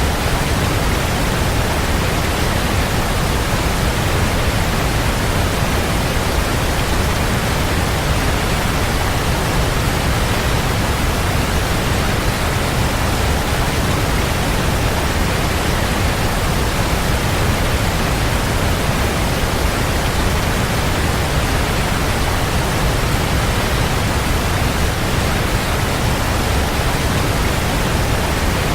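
Waterfall: water falling steadily and heavily, a dense, even rush with a deep low rumble.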